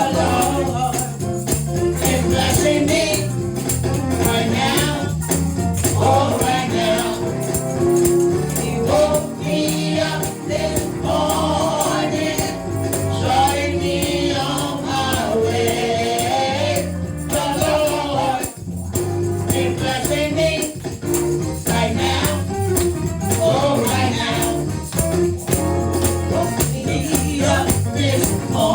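Gospel praise music: a group of voices singing together over a band, with a steady beat of shaken percussion.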